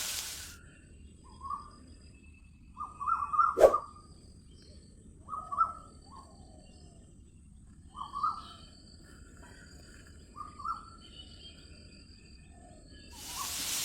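Birds chirping, with short calls every second or two, and a single sharp click a few seconds in. Bursts of hiss come at the start and near the end.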